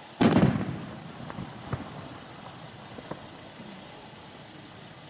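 Distant aerial firework burst: one loud boom about a quarter second in that fades over half a second, then a few fainter sharp cracks over the next three seconds.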